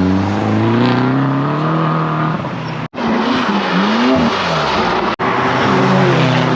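Loud car engines: a steady engine note, then revving that rises and falls. The sound cuts off abruptly twice, as short clips are joined together.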